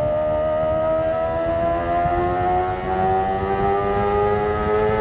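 Kawasaki ZX-25R's 250 cc inline-four engine and exhaust accelerating through a single gear, a high-pitched wail rising slowly and steadily in pitch.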